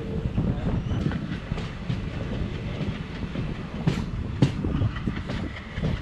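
Passenger train coach rolling out of a station, its steel wheels rumbling and clacking over the track, with two sharper clanks a little past the middle.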